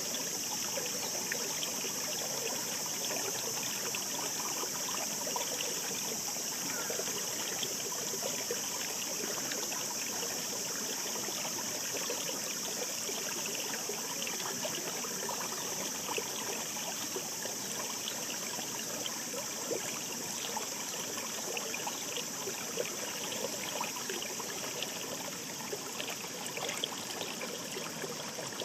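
The Katsura River's mountain stream babbling steadily, with a constant high-pitched hiss above the water's flicker.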